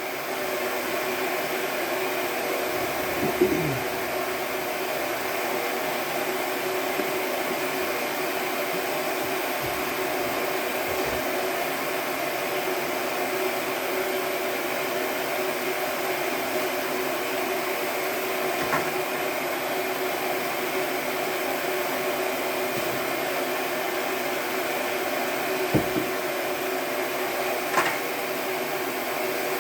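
Shop blower running steadily with an even rushing noise and a constant hum, broken a few times by brief clicks.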